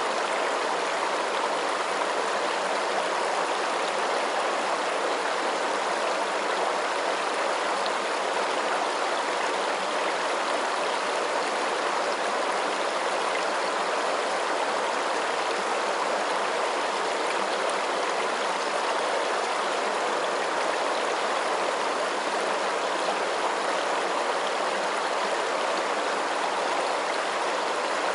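Running water: a steady, even rush with no breaks or separate splashes.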